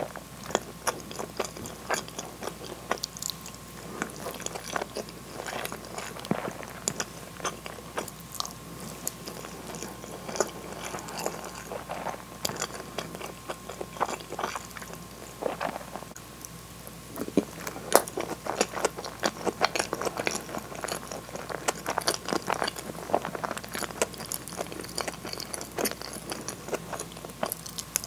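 Close-miked chewing and wet mouth sounds of someone eating soft food: hamburg steak, rice and potato salad. Irregular small clicks and smacks come throughout.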